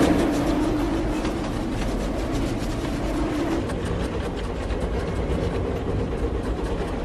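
Train running fast on the rails, a dense rumble with rapid wheel clatter, starting suddenly; a steady low tone sits over it for the first three and a half seconds.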